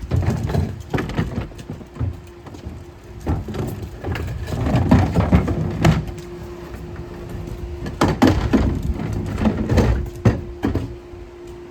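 Empty plastic wheelie bin being rolled along, its wheels rumbling over the ground, with irregular knocks and rattles from the bin and its lid.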